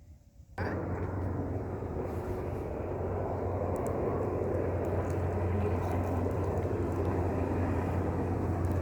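Helicopter engine and rotor noise: a loud, steady drone with a low hum that starts suddenly about half a second in and grows slowly louder as the helicopter passes.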